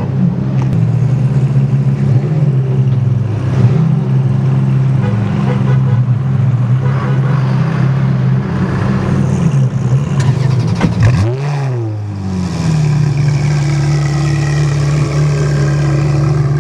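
Ferrari engine idling with a wavering note, blipped once about eleven seconds in: the pitch sweeps up and straight back down, then settles into a steady idle.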